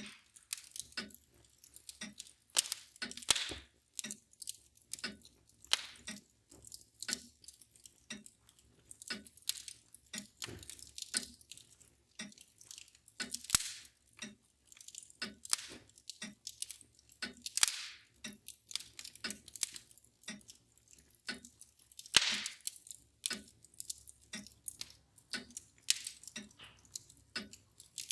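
Wood fire crackling and popping at irregular intervals, with several louder pops, over the steady ticking of a mantel clock.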